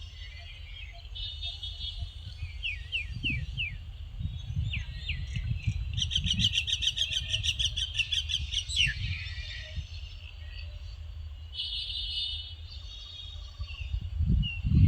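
Birds chirping and singing: short chirp phrases, a run of quick downward-sweeping calls, and a fast rapid trill of several seconds in the middle. A low rumble lies underneath.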